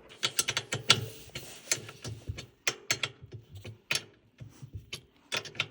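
Irregular clicks and clatters of metal parts and hardware being handled while fitting the wheel and handle kit onto a new portable generator.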